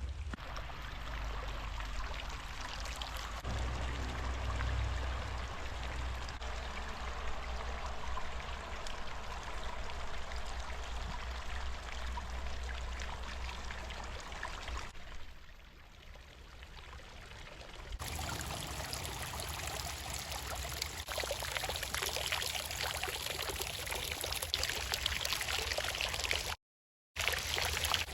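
Hot spring water running and pouring steadily, with a low rumble beneath it. The sound changes abruptly about two-thirds of the way through and drops out for a moment near the end.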